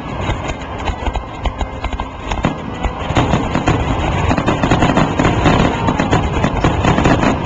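Aerial fireworks going off: scattered bangs at first, then from about three seconds in a dense, rapid run of bangs and crackles.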